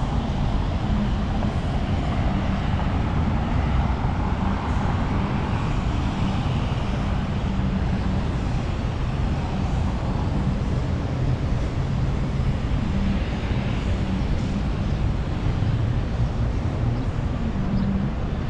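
Steady city street noise: traffic rumble with no separate events standing out.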